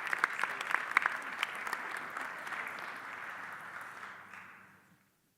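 Audience applause with individual claps. It fades out over about four seconds and stops just before the end.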